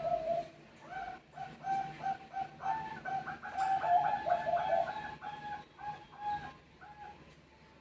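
Zebra doves (Bangkok perkutut) cooing in rapid runs of short staccato notes, two birds overlapping and answering each other in the middle. The calls die away near the end.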